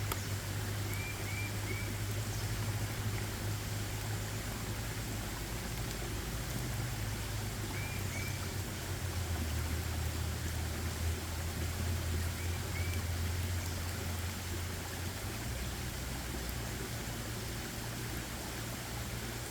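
Forest ambience: a steady rushing noise with a low steady rumble beneath it, and a bird's short chirps in quick groups of two or three, about a second in, around eight seconds and again around twelve seconds.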